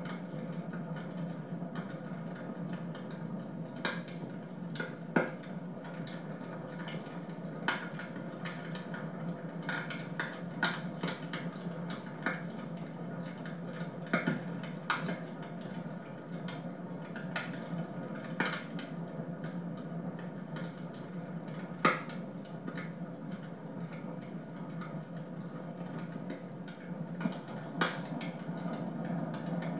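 Wood fire crackling in a fireplace: irregular sharp pops and snaps, a few louder than the rest, over a steady low hiss.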